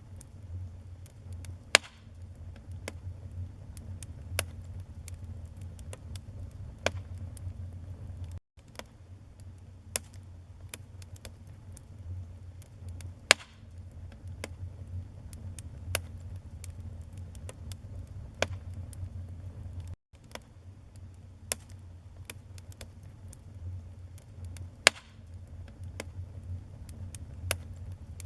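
Wood fire burning in a fireplace, with sharp crackles and pops at irregular intervals over a low steady rumble. The sound cuts out for a split second twice.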